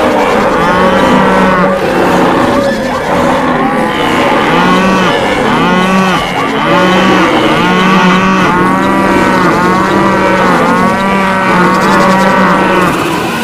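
Many cattle mooing, loud calls following one another without a break and often overlapping.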